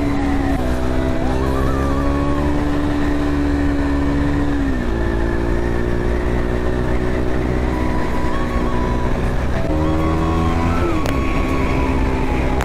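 KTM RC 390's single-cylinder engine running at steady high revs at road speed, over a rush of wind noise. Its pitch drops about five seconds in, rises sharply near ten seconds, then falls back and holds steady.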